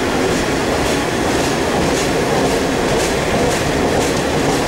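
Running noise of a DEMU (diesel-electric multiple unit) train heard from on board: a steady rush of steel wheels on rails with a light, evenly repeated clicking over the rail joints.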